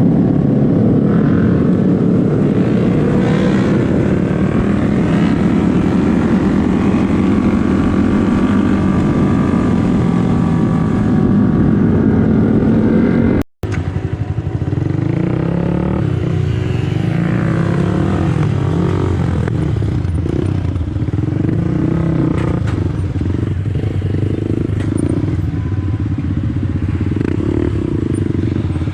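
Motorcycle engine running while the bike is ridden, its note rising and falling with the throttle, and a brief dropout about thirteen seconds in.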